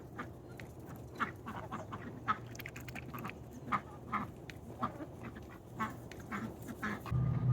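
Ducks quacking in many short, separate calls, often close together. Near the end a louder low hum sets in, with a faint, slowly falling tone above it.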